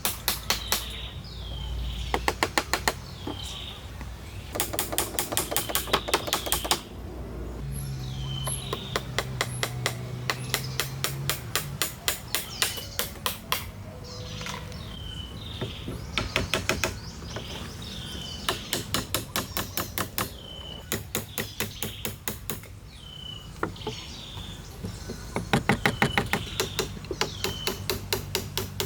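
Runs of rapid, sharp knocks from hand-tool work on wood during shelter building, several strikes a second, stopping and starting. A bird gives short falling chirps every second or two between them.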